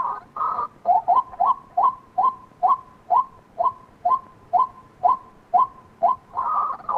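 White-breasted waterhen calling: a run of short rising notes at about two a second, after a harsher opening call. A louder, denser burst of calls starts near the end.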